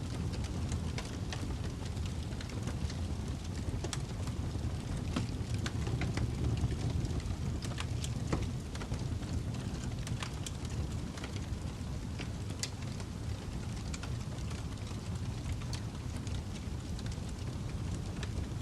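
Fireplace fire burning: a steady low rumble of flames with scattered irregular crackles and pops.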